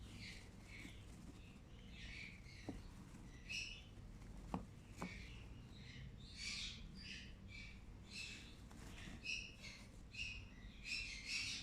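Green-cheeked conure chicks chirping: many short, high calls in quick irregular succession, with two sharp taps about four and a half seconds in.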